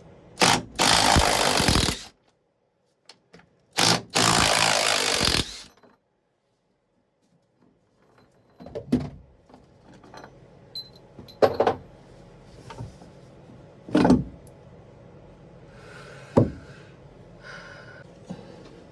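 Power drill boring into the wooden hull in two bursts of about a second and a half each, followed by several separate knocks and taps.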